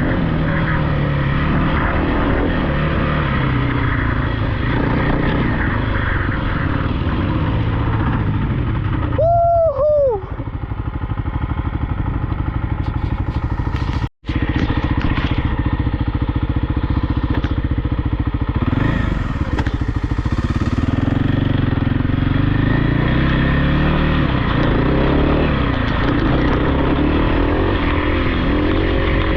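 Off-road dirt bike or quad engine running hard, its revs climbing and dropping again and again. A brief high, whistle-like tone sounds about nine seconds in, and the sound cuts out for an instant around fourteen seconds.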